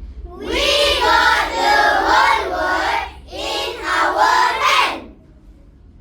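A chorus of children's voices in unison, delivering two phrases, the second ending about five seconds in.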